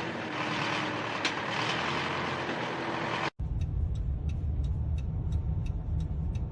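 Road vehicle noise in two clips: a steady hiss of traffic, then, after an abrupt cut about three seconds in, a low vehicle rumble with a faint regular ticking about three times a second.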